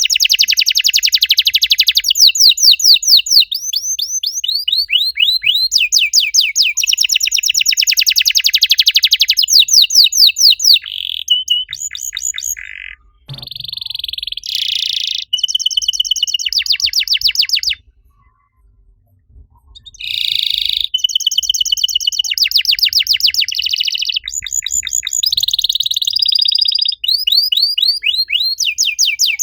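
Domestic canary singing: fast trills of rapidly repeated high notes and rolling phrases, pausing briefly about a third of the way in and stopping for about two seconds a little past halfway before the song resumes.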